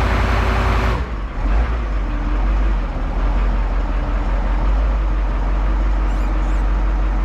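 Large Cat forklift's engine running while its hydraulics cycle the forks back and forth. A louder layer of noise with a steady whine stops abruptly about a second in, leaving the engine's steady low rumble.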